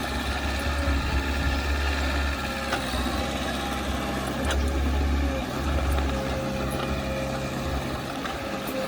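Heavy earthmoving machine's diesel engine running, a steady deep rumble that eases near the end, with a couple of faint clicks.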